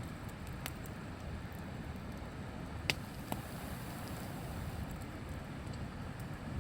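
Wood campfire crackling, with a few sharp pops, the loudest about three seconds in, over a steady low rushing background.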